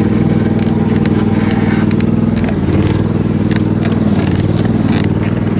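Riding lawn mower engine running steadily, with its speed dipping briefly and recovering about halfway through.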